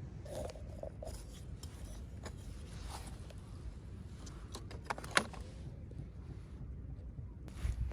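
Small clicks and rustles of toy packaging being handled during an unboxing, with one sharp click about five seconds in, over a low steady hum.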